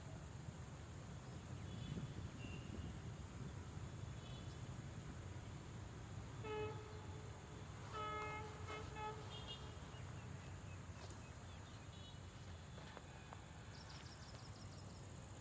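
Faint outdoor ambience with a steady low rumble. About halfway through, a distant horn gives one short toot and then a few more in quick succession. Faint bird chirps are scattered through.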